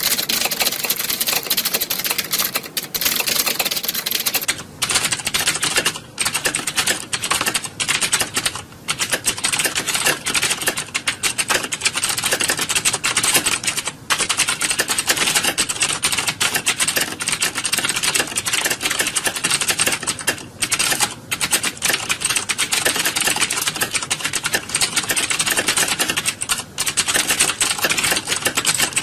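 Many computer keyboards being typed on at once: a dense, continuous clatter of key clicks with a few brief lulls.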